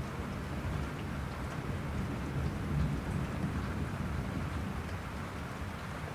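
Steady rain falling, with a low continuous rumble of thunder underneath that swells slightly midway.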